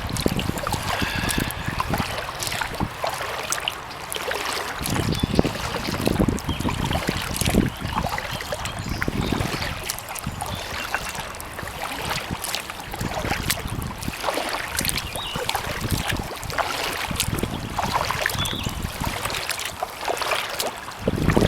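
Kayak paddling: the paddle blades dip and splash with water trickling off them, and gusts of wind rumble on the microphone now and then.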